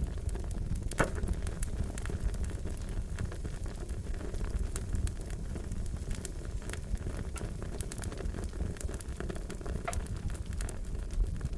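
Wood fire crackling: a steady low rumble with scattered sharp pops, one louder pop about a second in.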